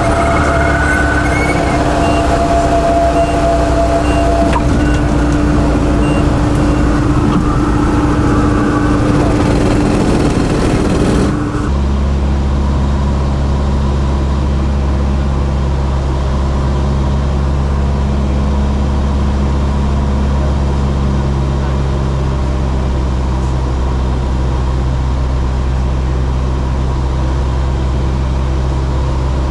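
Steady engine drone from inside a running vehicle, with no break. About eleven seconds in it changes abruptly to a lower, duller steady hum.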